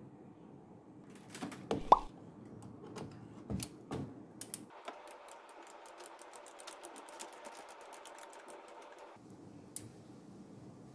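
Ratchet handle clicking in a quick, even run for about four seconds, driving a T-30 Torx bolt on the supercharger's front coolant pipe. It is preceded by a few sharp metal clinks and knocks as the tool is handled.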